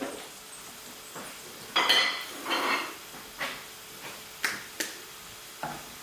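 Cooking utensils and pans clattering in a kitchen: a string of separate knocks and clinks, the loudest a ringing metallic clatter about two seconds in.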